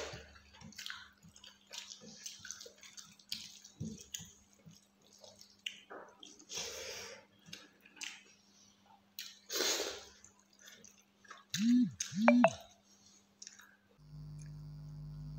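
Close-up eating sounds of rice and fish curry eaten by hand: irregular wet chewing, lip smacks and squishes, with two short pitched mouth sounds about twelve seconds in. A steady low hum starts near the end.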